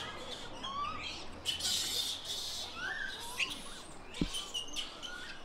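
Birds chirping in short rising and falling calls, with a soft low thump about four seconds in.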